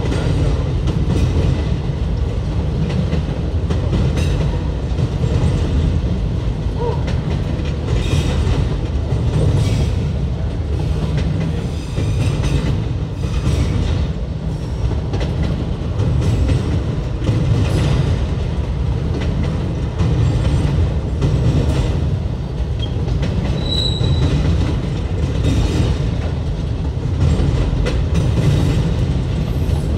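Freight train cars rolling past with a steady low rumble, and the wheels clacking over rail joints every couple of seconds. A brief high squeal comes near the end.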